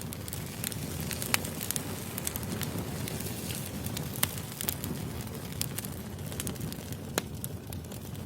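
Wood fire burning, with a steady low rumble of the flames under irregular sharp crackles and pops of the logs; the loudest pops come about a second in and about four seconds in.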